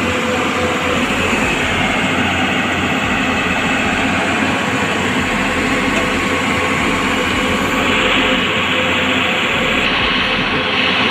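A vehicle's engine running steadily and loudly, with a dense mechanical rumble and noise.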